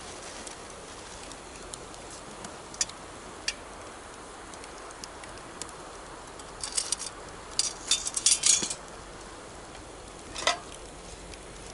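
Wood campfire crackling, with sharp pops scattered through and a quick run of loud pops in the second half, over the steady rush of a river.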